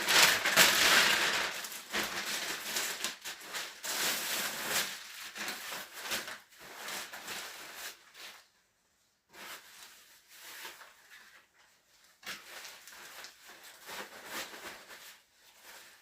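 Irregular rustling and crinkling of handled material, loudest in the first two seconds, then dying down to scattered faint rustles with short quiet gaps.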